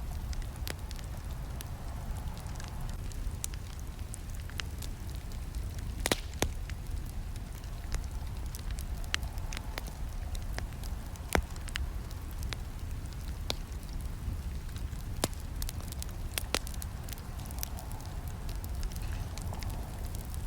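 Campfire burning: a steady low rumble of flames with irregular sharp pops and snaps of burning wood, a handful of them louder than the rest.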